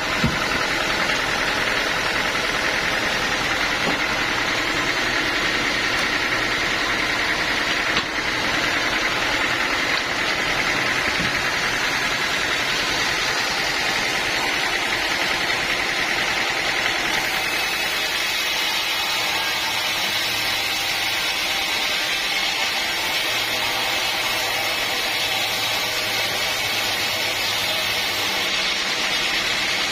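Sawmill machinery running steadily: an engine-like drone under a dense, even hiss, with a brief knock near the start and another about eight seconds in.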